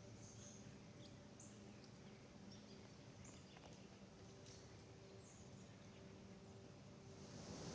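Near silence with faint, scattered short bird chirps. A soft rushing hiss swells near the end.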